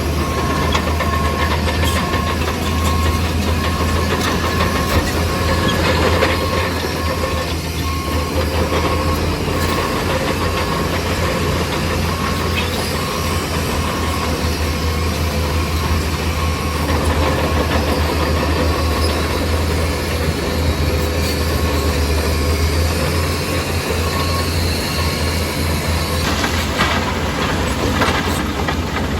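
Bulldozer working: its diesel engine running under load with the clatter of steel tracks, and a steady repeated beep sounding through most of it before stopping near the end.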